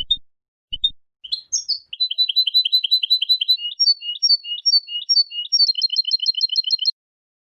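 European goldfinch (chardonneret) singing: a few single chirps, then a fast run of repeated high notes, some slower two-note phrases and a second quick trill that stops abruptly near the end.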